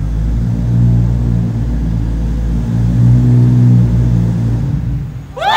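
Sports car engine running at a steady low idle, swelling a little now and then, which stops near the end as a crowd breaks into loud screams and cheers.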